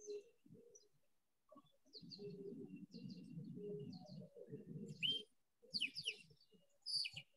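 Small birds chirping in short high calls, the loudest about five, six and seven seconds in, over a low muffled background sound.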